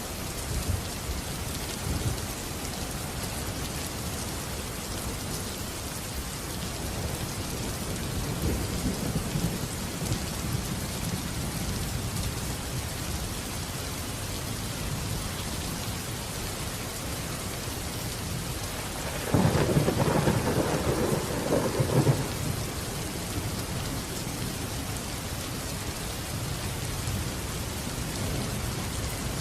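Steady rain falling in a thunderstorm, with low rumbles of thunder a few times and one louder thunder clap about two-thirds of the way through that lasts about three seconds.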